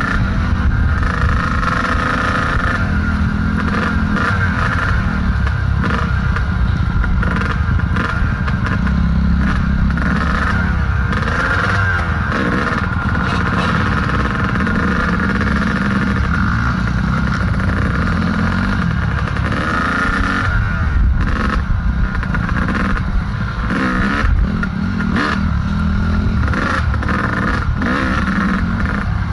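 Two-stroke dirt bike engine running on a rocky trail, most likely a Kawasaki KDX220, its revs rising and falling as the rider works the throttle. Scattered clattering knocks come through at times.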